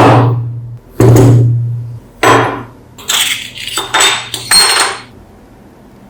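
Metal parts knocking and clinking against a hard surface: three single sharp knocks about a second apart, each ringing briefly, then a quicker run of clinks.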